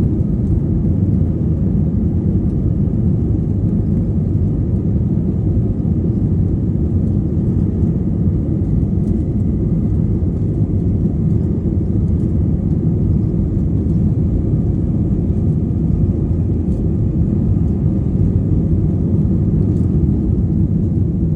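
Airplane taking off: a steady low rumble of engines and rolling that holds at an even level throughout.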